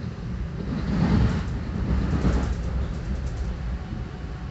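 Exo commuter train running on the rails with a steady low rumble; about a second in, a louder rush of rail noise swells for roughly two seconds, with a run of short sharp clicks from the wheels near the middle.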